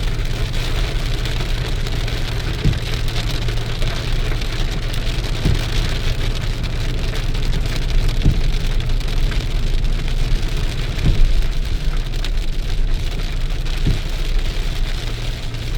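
Heavy rain falling on a surface over a steady low hum, with a faint short knock repeating about every three seconds.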